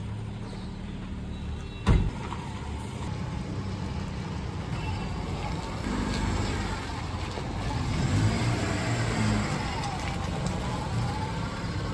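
A car engine running while the car is driven slowly out at low speed, growing a little louder past the middle. A single sharp knock sounds about two seconds in.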